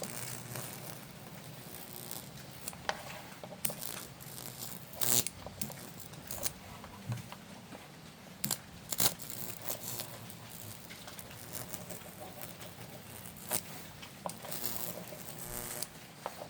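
High-voltage crackling and sizzling from a neon sign transformer burning a Lichtenberg figure into damp wood, with several sharp arcing snaps along the way. The wet wood makes the burn slow.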